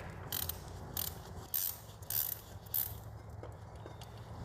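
Ratchet wrench clicking in about five short back-strokes, roughly two a second, while the oil drain plug is turned with a 10mm socket.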